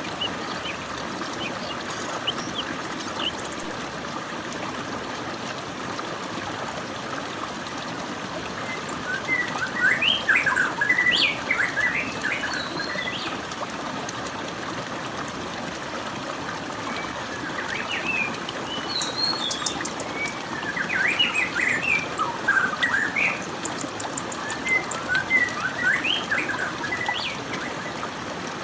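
Small birds chirping and twittering in quick bursts over a steady rush of flowing water. The chirping comes in two spells, about a third of the way in and through much of the second half.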